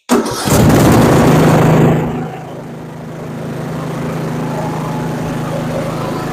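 Craftsman lawn tractor engine running on a newly fitted replacement carburetor. It runs loud for about the first two seconds, then drops to a steadier, lower running speed.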